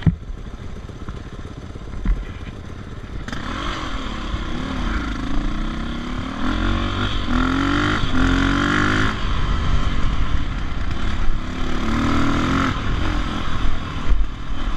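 Dirt bike engine being ridden along a trail, quieter for the first few seconds, then revving up louder about three seconds in, its pitch rising and falling over and over as the throttle is worked.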